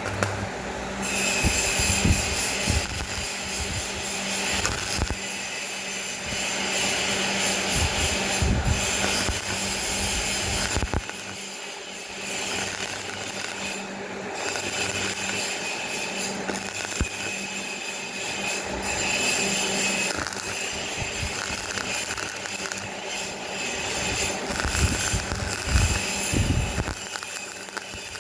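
Irregular hand scraping and rubbing in uneven bouts, over a steady hum.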